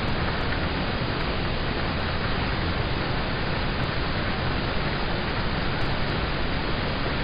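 Steady rain on a car, heard from inside the cabin: an even, unbroken hiss with no distinct drops standing out.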